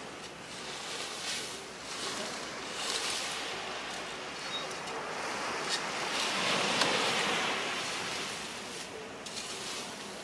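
Sea waves washing onto a beach, a steady surf hiss that swells louder about six seconds in as a wave breaks.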